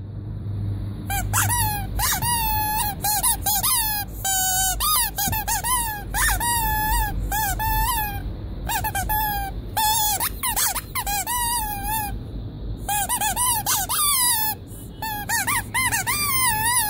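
Rubber squeaky toy squeezed over and over, each squeak a short wavering whistle, with a brief pause about twelve seconds in. A faint steady hum runs underneath.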